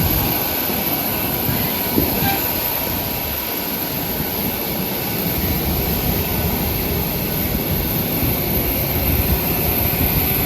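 Steady drone and high whine of a Ryanair Boeing 737-800 on the ground during boarding, with one short knock about two seconds in.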